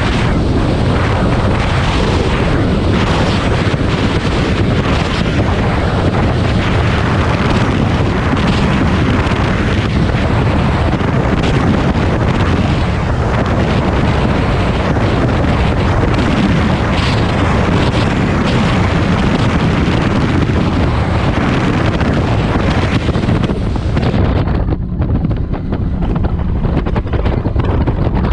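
Heavy wind buffeting the microphone over the steady drone of a fast catamaran powerboat's twin 350 hp engines running at speed, with water rushing past the hull. The hiss thins out for a few seconds near the end.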